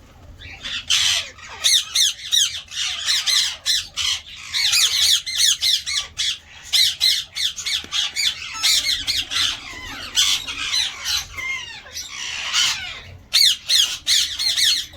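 Ringneck parakeets squawking in rapid, shrill, overlapping calls, starting about a second in and going on with only brief pauses.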